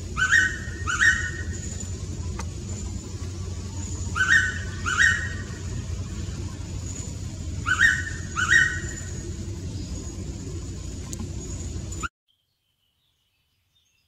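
Blue-winged pitta calling its loud two-note whistle three times, a pair of notes every three and a half seconds or so, over a steady low rumble and a thin steady high whine. The sound cuts off abruptly near the end.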